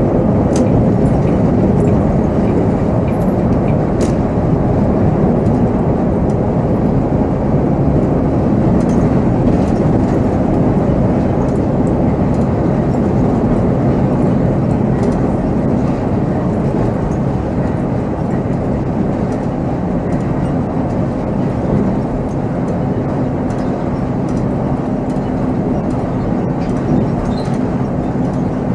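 Volvo B7R coach on the move, heard from the driver's seat: a steady diesel engine hum under road and cabin noise, with a few light clicks and rattles.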